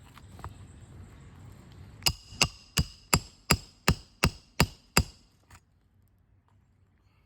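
Roofing hammer striking a roof snake nine times in quick succession, about three blows a second, driving a nail home under a 3-tab asphalt shingle; each blow has a short metallic ring.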